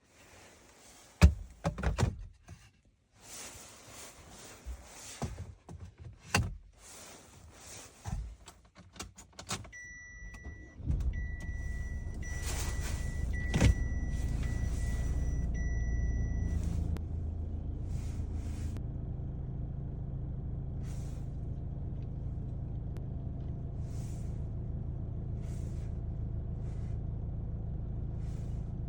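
Scattered clicks and knocks of handling, then a car engine starting and idling with a steady low rumble. An electronic warning chime in the car beeps repeatedly for several seconds as the engine starts.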